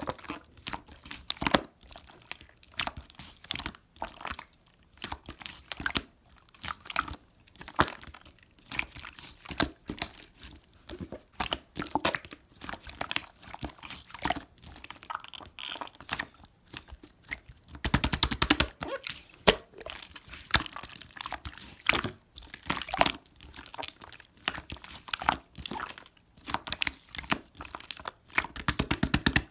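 Hands squeezing and poking slime, making irregular crackles, pops and squelches, with a quick burst of rapid crackling about two-thirds of the way through.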